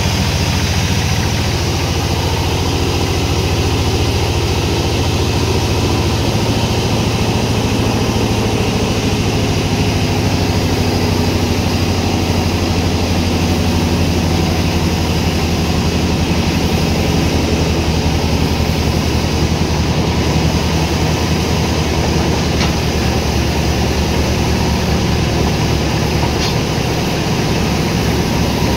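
Sawmill machinery running steadily, a loud, even engine-like drone with no let-up.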